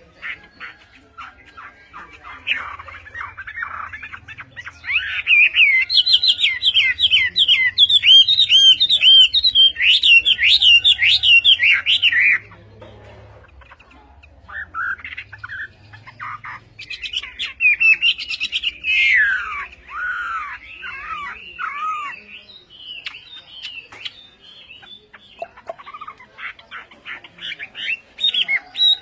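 A songbird singing in loud, rapid runs of whistled and slurred notes, with a dense burst in the first half, a short lull, then a phrase of falling notes.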